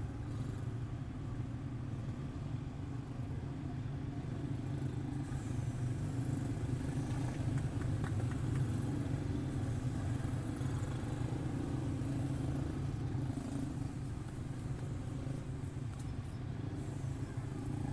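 Quarter midget race cars with small single-cylinder Briggs & Stratton Animal engines running laps together, making a steady engine drone.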